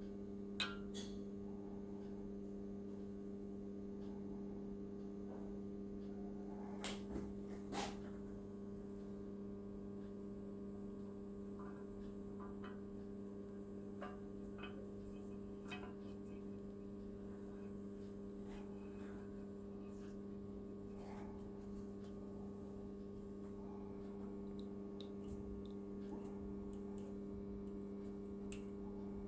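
Steady electrical hum with a few faint clicks and taps scattered through it, a couple of them sharper about seven to eight seconds in.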